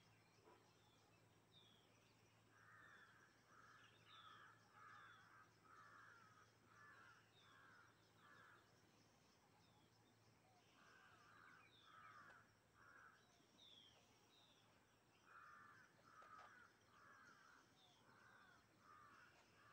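Faint harsh bird calls in runs of several notes, about two a second, three runs in all, with thin high chirps from another bird scattered throughout.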